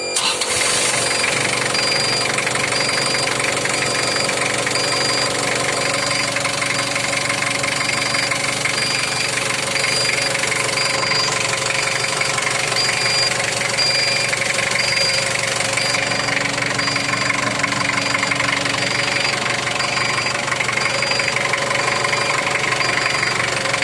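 Isuzu C240 four-cylinder diesel engine of a forklift running steadily with diesel clatter, cutting in suddenly at the start. A short high beep repeats evenly throughout.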